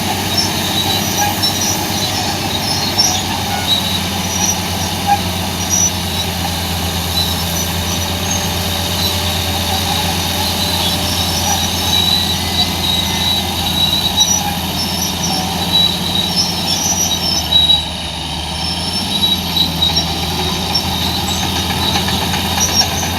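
Heavy earthmoving machinery, a bulldozer and wheel loader, running steadily with a low engine hum and frequent short high-pitched squeaks throughout, with a brief dip near the end.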